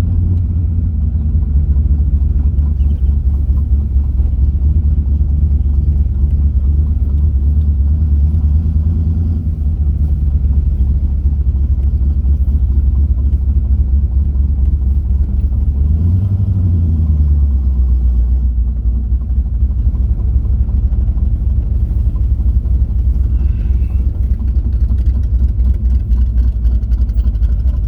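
C3 Corvette's V8 engine running while the car drives along, a steady low drone. About two-thirds of the way through the engine speed briefly rises and falls, then it settles to a lower, steady pitch.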